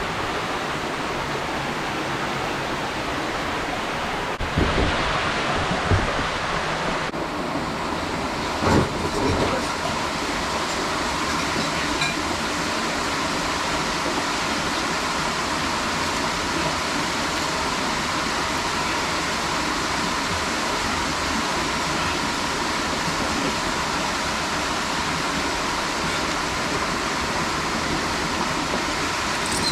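Steady rush of falling water, with a few low thumps about five and nine seconds in.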